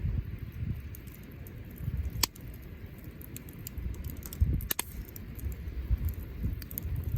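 Wood bonfire burning, with a low rumble, a steady scatter of small crackles, and two sharper pops about two and four and a half seconds in.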